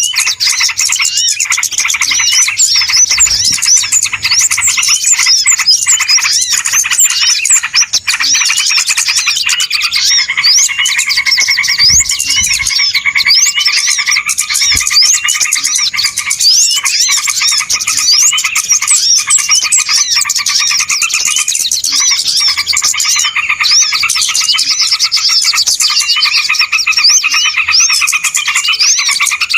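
Dense, unbroken chorus of many small birds chirping and twittering together, rapid overlapping high calls: a noisy bird-lure recording used to draw small birds in.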